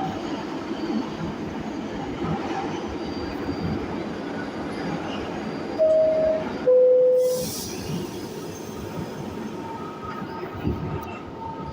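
New York City subway train running in the station with a steady rumble. About six seconds in, a two-note descending chime sounds, higher note then lower, with a short hiss of air under the second note: the door-closing signal.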